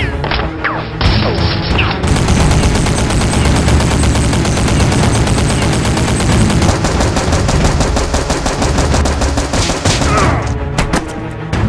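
Rapid automatic gunfire sound effects, long volleys of shots close together, with music underneath; the shooting thins out near the end.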